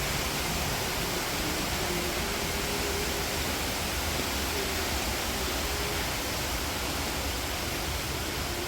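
Steady, unbroken rushing noise, with a faint wavering tone low underneath.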